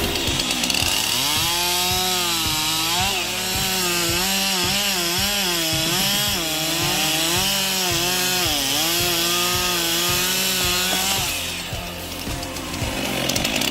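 Chainsaw engine running under load while cutting wood, its pitch rising and dipping repeatedly over a steady hiss, then easing off near the end.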